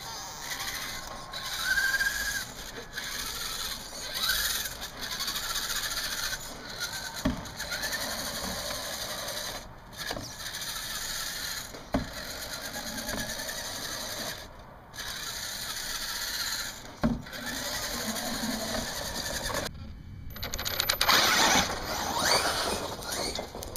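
Small electric motor of a radio-controlled truck whirring, its pitch rising and falling briefly with the throttle, with a few sharp clicks.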